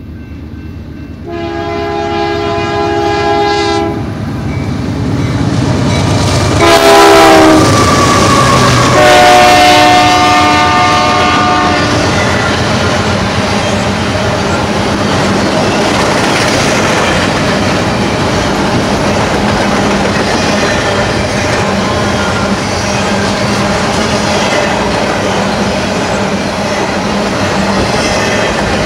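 BNSF freight train led by a GE Dash-9-44CW locomotive, blowing its multi-chime air horn: a long blast about a second in, a short loud blast whose pitch drops as the locomotives pass, then another long blast at a lower pitch. After that, double-stack container cars roll by with steady rumble and wheel clatter.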